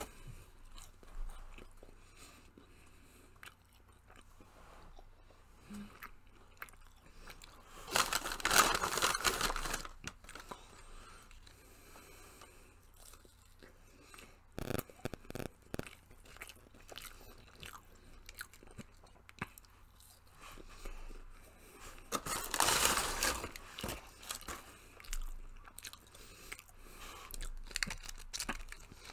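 Close-up chewing and mouth sounds of a person eating chicken nuggets dipped in sauce. There are small clicks throughout and two louder noisy bursts, about eight and twenty-two seconds in.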